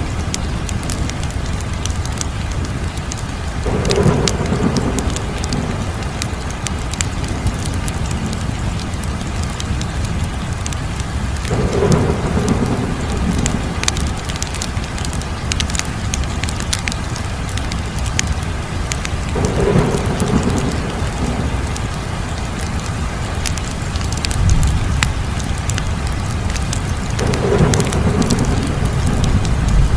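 Wood fire crackling, with many sharp pops and snaps over a steady low rumble. The rumble swells about every eight seconds.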